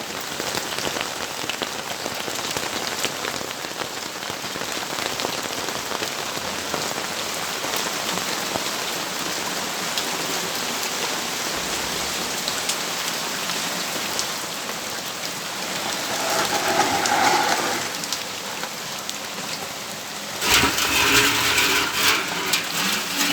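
Steady rain falling and pattering on surfaces. Two louder swells come through it, a short one about two-thirds of the way in and a stronger one near the end.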